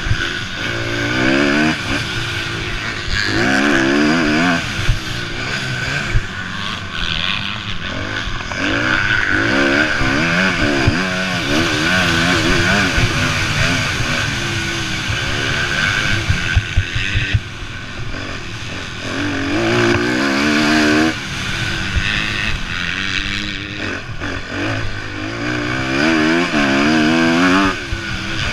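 Several motocross bikes racing, their engines revving up and falling back over and over as they shift and pass, with more than one engine often heard at once.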